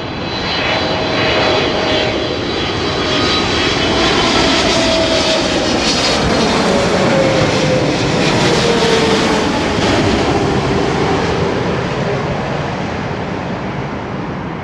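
Boeing 777 jet engines on landing, a loud rushing noise that swells, holds and eases off near the end, with a whine that falls slowly in pitch as the jet passes.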